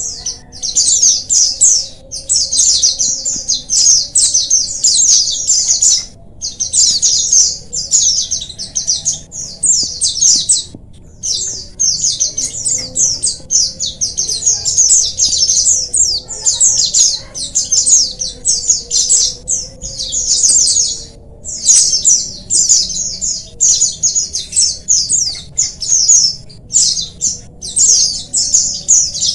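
A flock of white-eyes (pleci) chirping and singing together: dense, rapid, high-pitched twittering, broken now and then by brief pauses. It is the kind of colony chorus played to lazy white-eyes to set them singing.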